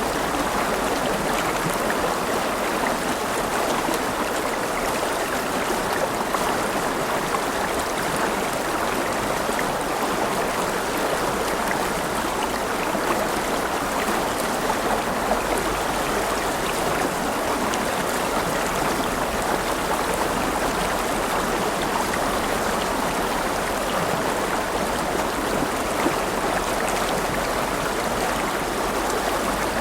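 River or stream water rushing and babbling over rocks in a steady, unbroken flow.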